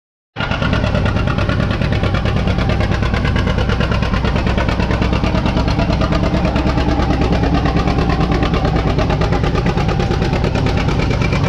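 Antique pulling tractor's engine running loud and steady, cutting in abruptly about half a second in.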